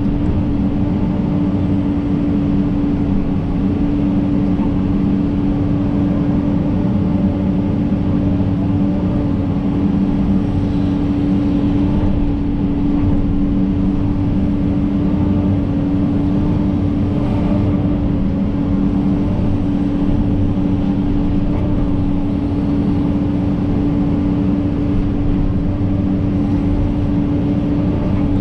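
John Deere 130G excavator's diesel engine running steadily under work, a constant drone that holds one pitch.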